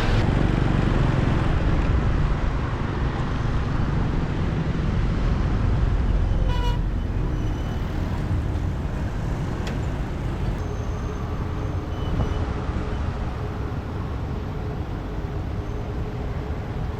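Motorbike riding through city traffic: steady engine, road and wind noise, with a short horn toot about six and a half seconds in.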